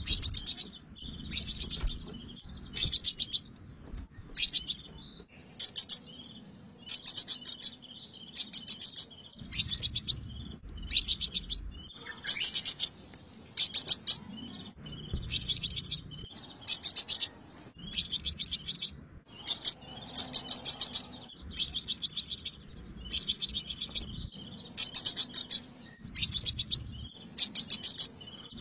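Sunbird calling: short bursts of rapid high-pitched chirps and trills, repeated every second or two.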